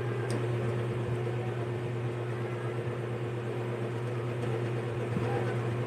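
Steady low mechanical hum with a constant tone and an even hiss over it, unchanging throughout.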